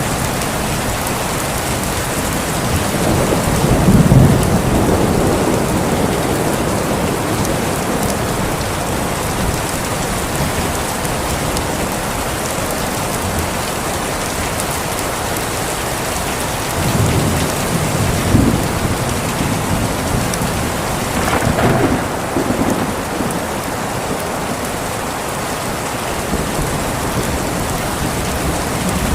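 Steady heavy rain falling on a surface, with thunder rumbling over it three times, the loudest and longest about four seconds in, and two shorter rolls past the middle.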